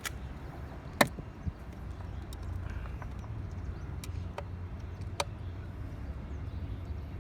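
A few sharp plastic clicks and knocks from a robotic pool cleaner's housing as its release tabs are pulled in and the top unit is worked loose, the loudest about a second in, over a steady low hum.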